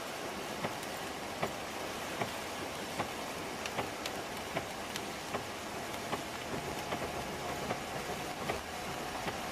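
Steady rain-like rushing noise with a sharp regular tick about every 0.8 seconds and a faint steady hum.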